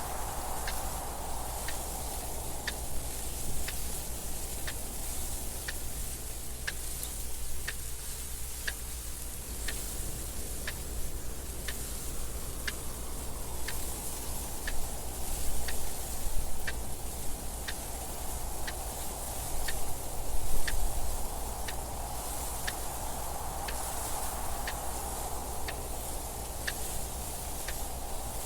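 A mechanical clock ticking steadily, with even, sharp ticks. Under the ticks, wind noise slowly swells and fades: strong at the start, dying down around a third of the way in, and rising again near the end, with a steady low rumble beneath.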